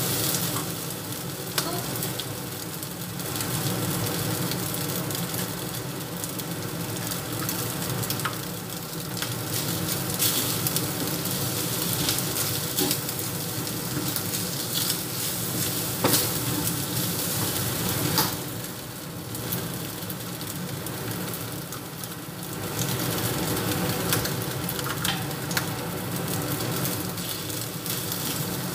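Fried rice sizzling steadily in a hot pan as it is stir-fried, with a wooden spatula scraping and knocking against the pan now and then.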